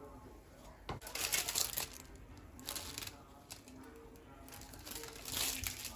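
A click, then several short bursts of crinkling, crunching noise.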